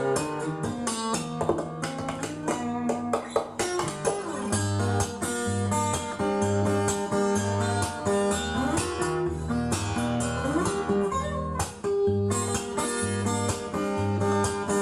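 A guitar-led song playing from a vinyl record on a Lenco L30 belt-drive turntable.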